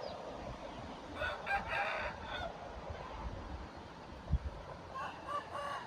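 Rooster crowing twice, about a second in and again near the end, over steady wind noise on the microphone, with a single low thump a little after four seconds.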